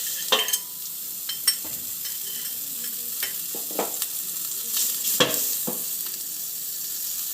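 Butter melting and sizzling in a hot pan, with a steady hiss, and a few scrapes of a stirring utensil against the pan.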